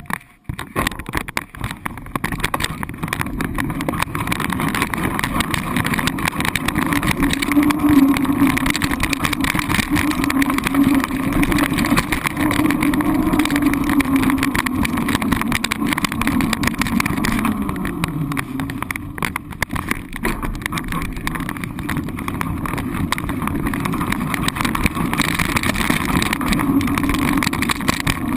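A vehicle's engine running steadily while under way, with a continuous rush of travel noise. A little past the middle the engine note drops in pitch, as when slowing or easing off.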